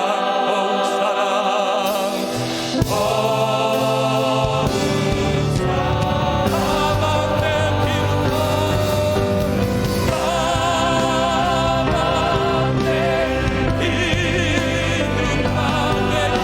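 Church worship band music with singing voices holding wavering, vibrato notes over keyboards. Bass and drums come in about four and a half seconds in, after a single sharp hit near three seconds.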